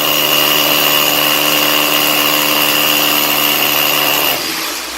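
Electric power tool running at a steady speed with a high whine, chamfering the edges of a fireplace brick, then switched off about four and a half seconds in.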